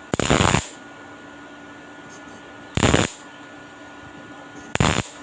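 Three short bursts of crackling electric welding, each well under a second, spaced about two seconds apart: tack welds fixing a stainless steel fuel cap in place.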